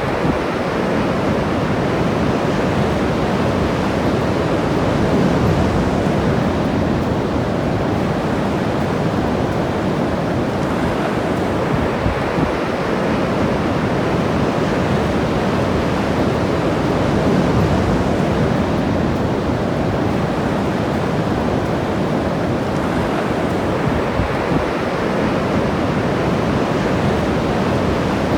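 Ocean surf washing up on a beach: a steady rush of breaking waves that swells gently every ten seconds or so.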